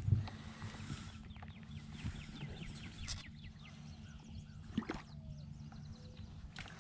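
Birds chirping in many short, quick falling notes over a faint steady low hum, with a sharp knock right at the start and a few softer clicks.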